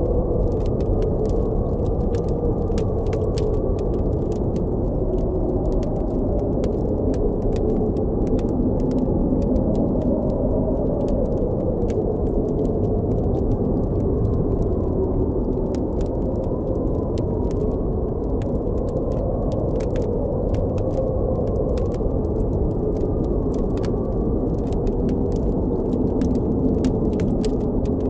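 Blizzard wind, a steady low rush with a howl that wavers up and down in pitch, and a campfire's small crackling pops scattered over it.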